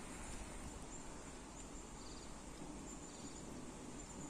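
Steady rain falling, an even soft hiss, with faint short high chirps scattered over it.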